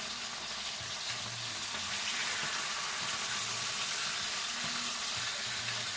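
Onions frying in a pan, a steady sizzle.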